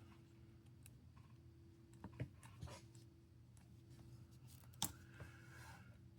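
A few faint clicks and taps of small tools and phone parts being handled, the sharpest nearly five seconds in, over a low steady hum.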